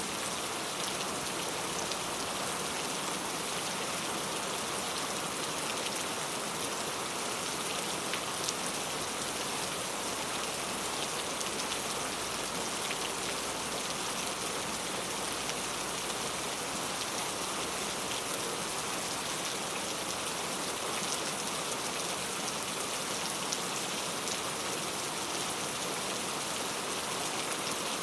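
Heavy rain falling steadily, pattering on street surfaces in a constant dense hiss with fine drop ticks.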